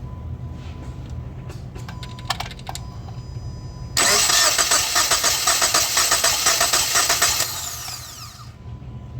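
2015 Jeep Patriot's 2.4-litre four-cylinder engine cranking over on the starter for about three and a half seconds, in even pulses, then winding down, during a compression test of cylinder 2, the healthy cylinder. A few sharp clicks come about two seconds in, over a steady low hum.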